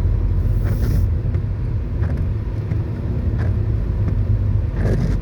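Steady low rumble of a car on the move, with engine and road noise heard from inside the cabin. A brief high hiss comes a little after half a second in.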